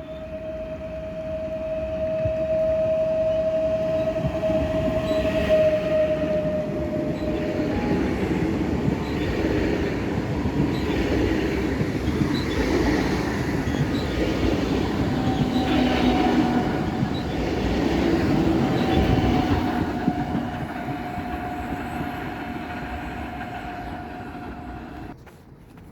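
Passenger train passing close by on the track: a loud rumble of wheels on rails with repeated clacks over rail joints, and a steady high whine for the first several seconds and again in the second half. The sound cuts off suddenly near the end.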